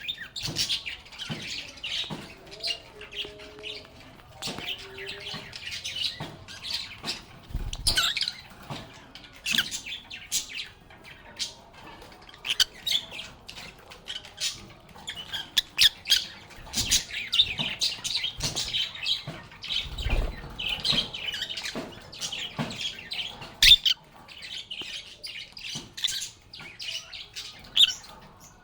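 A flock of lovebirds chirping and squawking continuously in quick, overlapping calls, with a couple of soft thumps and a sharp click in between.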